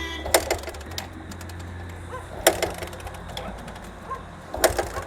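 Sharp clacks about every two seconds over a low steady hum.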